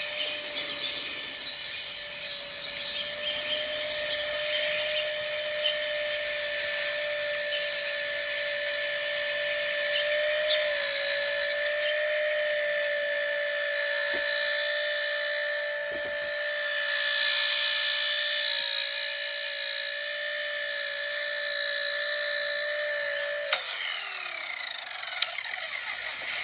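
Blade Nano S3 micro RC helicopter's electric motor and rotor whining at a steady high pitch in flight, then spooling down with a quickly falling whine near the end.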